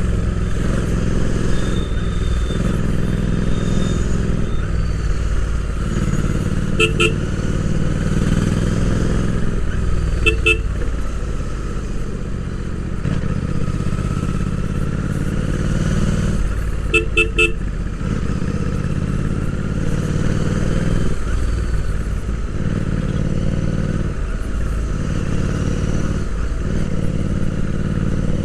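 Royal Enfield Interceptor 650's 648 cc parallel-twin engine running on the move, its revs rising and falling with throttle and gear changes. Short horn toots sound three times: two quick beeps about a quarter of the way in, two about a third of the way in, and a quicker run of several beeps a little past the middle.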